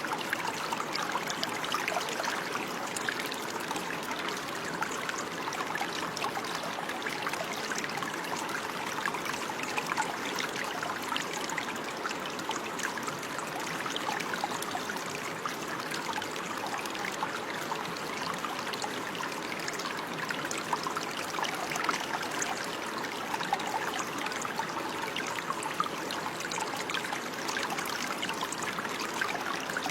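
Running water: a small stream trickling and splashing steadily.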